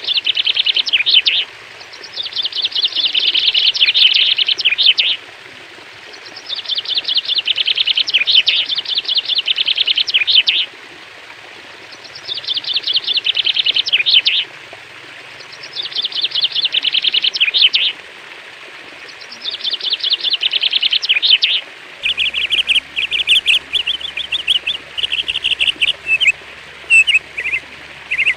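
A songbird singing in repeated bouts of rapid, chattering notes, each bout a few seconds long with short pauses between. About three-quarters of the way in, the song changes to shorter, separate phrases over a faint low hum.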